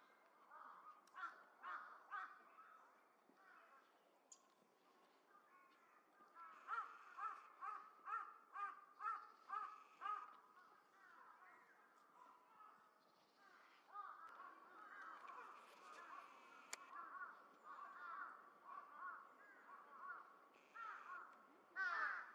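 Crows cawing, faint, as a run of about eight caws roughly two a second, then more caws overlapping one another over the second half.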